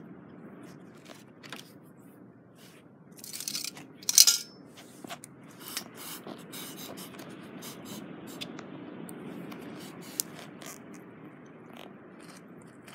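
Metal camp cookware being handled: scattered clinks and scrapes, with a sharp crackling rustle about four seconds in.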